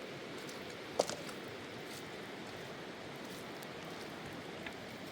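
Steady rain falling, an even hiss of drops, with one sharp tap about a second in and a fainter tick near the end.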